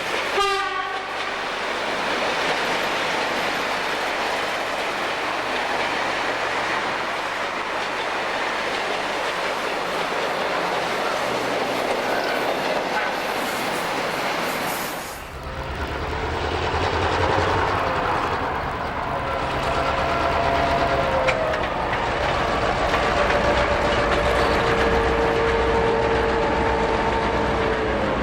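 Diesel-hauled freight train passing, with wheels clattering over the rail joints. About halfway an abrupt cut brings in a diesel locomotive's low engine throb, and in the last several seconds its horn sounds in long held notes.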